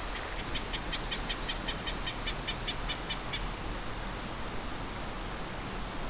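A bird calling a rapid run of short, evenly spaced chirps, about five a second, for some three seconds, over a steady hiss.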